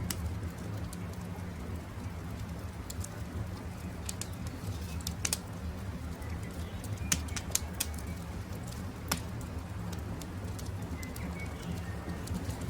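Wood campfire crackling, with scattered sharp pops over a low steady rumble, and birds calling in the background.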